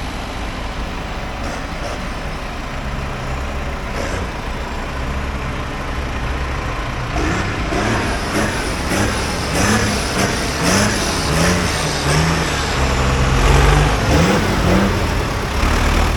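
Tractor engine running steadily. From about seven seconds in it grows louder, with a run of short rising whines repeating about once a second.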